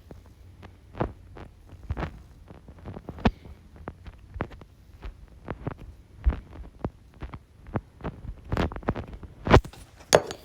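Irregular short knocks and thumps, about one or two a second over a faint low hum, with a louder cluster near the end.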